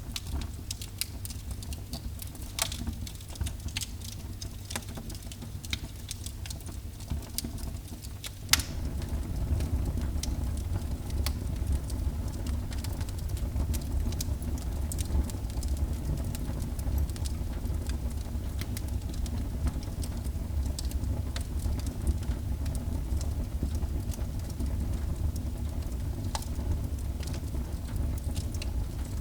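Wood fire burning in a fireplace, crackling and snapping with many small sharp pops over a steady low rumble of flames. About eight seconds in there is a louder pop, and from then on the rumble is louder.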